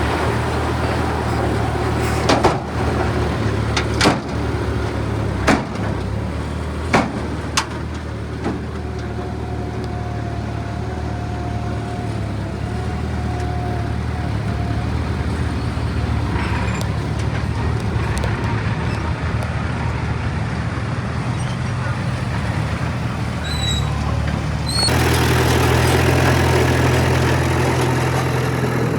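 Heavy earthmoving machine's diesel engine running steadily, with five or six sharp clanks between about two and eight seconds in; about 25 seconds in the engine gets louder.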